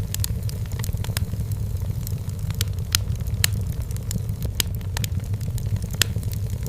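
Wood fire burning in a fireplace: a steady low rumble of the flames with sharp, irregular crackles and pops of the burning firewood, a few louder pops in the second half.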